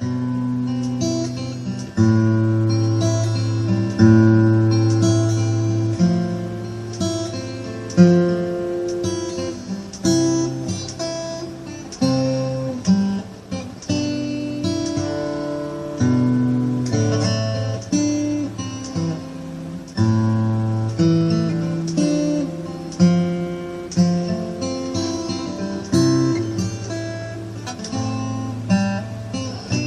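Solo acoustic guitar playing a slow instrumental, with a chord struck about every two seconds and single notes ringing between.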